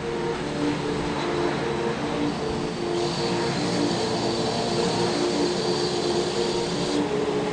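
Airliner engine noise with a thin high whine that starts about three seconds in and cuts off about a second before the end, under a repeating pattern of short low notes.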